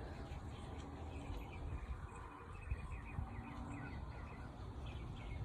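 A small bird singing faintly, a run of short repeated chirps through the middle, over a low rumble of wind on the microphone.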